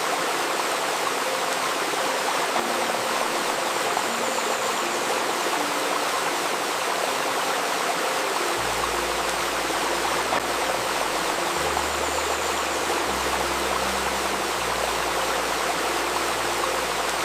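A shallow river babbling steadily, with soft sustained tones that include a 528 Hz tone held underneath. Deep low notes join in about halfway through and change every second or two.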